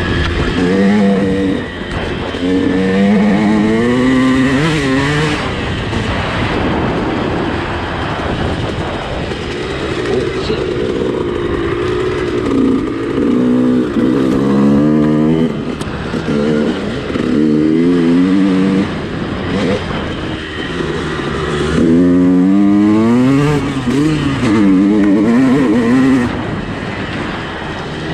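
Suzuki RM two-stroke dirt bike engine being ridden hard, its pitch climbing and dropping again and again as the throttle is opened and shut and the gears change.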